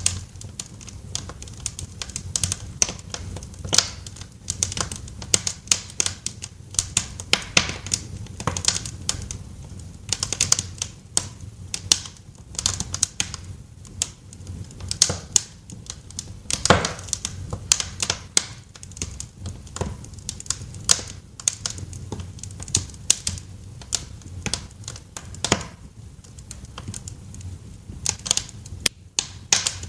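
Wood fire crackling in a fireplace: irregular sharp pops and snaps, several a second, over a low steady rumble of the flames, with one louder pop about two-thirds of the way through.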